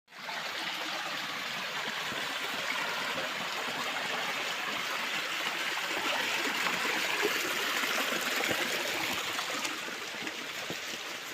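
Small waterfall running into a stream: steady splashing and trickling of falling water.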